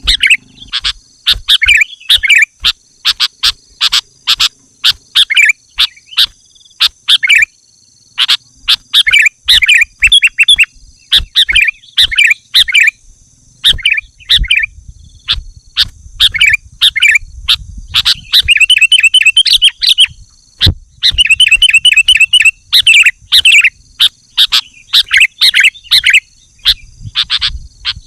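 Sooty-headed bulbul (kutilang) singing loudly and vigorously, with short bubbling chirpy phrases one after another and quicker trilled runs about two-thirds of the way through. A steady high-pitched whine sits underneath.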